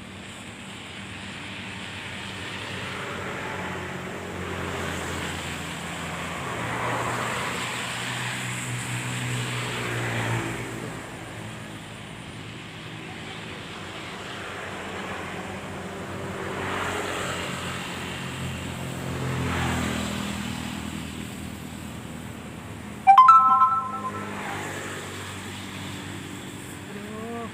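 Road traffic: motor vehicles passing by over a steady hum, swelling and fading twice. Late on, a brief loud sound with a clear pitch, such as a horn or a shout, stands out above the rest.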